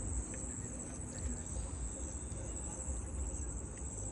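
Insects chirring in a steady, high-pitched chorus, over a low rumble.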